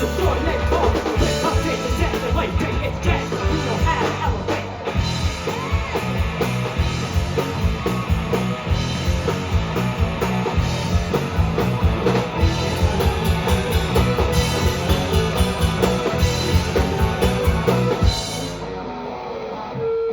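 A live rock band plays an instrumental passage with a pounding drum kit. About eighteen seconds in the drumming stops suddenly, leaving a quieter ringing chord at the close of the song.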